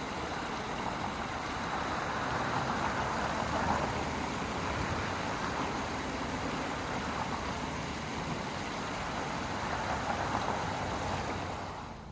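Steady rushing road noise of a car in motion, which cuts off suddenly near the end.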